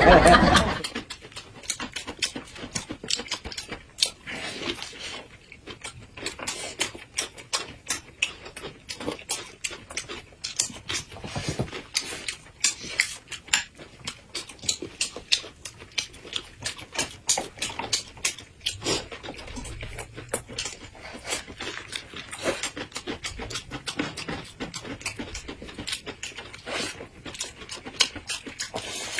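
Close-miked eating: wet chewing, lip smacks and crisp crunches as pancake rolls filled with meat and lettuce are bitten and chewed, a rapid irregular patter of small clicks.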